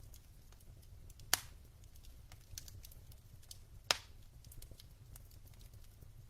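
Wood fire in a fireplace crackling, with scattered small snaps over a low rumble and two louder pops, about a second in and near the middle.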